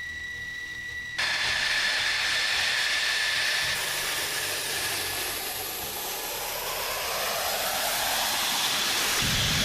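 Jet aircraft engine noise: a high whine over a loud rushing hiss that jumps louder about a second in, with a deeper rumble coming in near the end.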